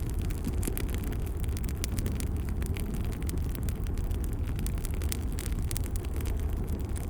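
Wood fire crackling in a fireplace: a steady low rumble of the flames with frequent small pops and snaps.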